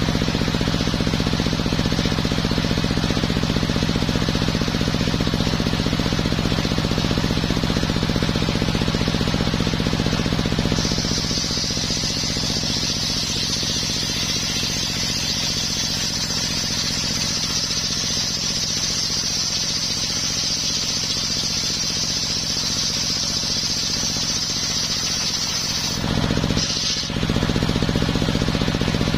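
Homemade circular sawmill running steadily, its engine droning low throughout. About a third of the way in, a high, steady whine joins it as the blade cuts through coconut wood, and it stops a few seconds before the end, leaving the engine running alone.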